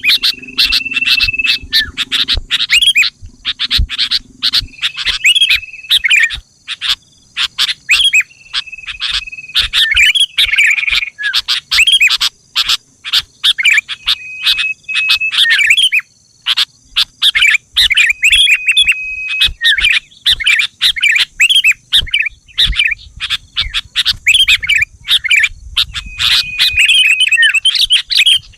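Sooty-headed bulbul (kutilang) calling: rapid, busy chirps with a short held whistle note every few seconds.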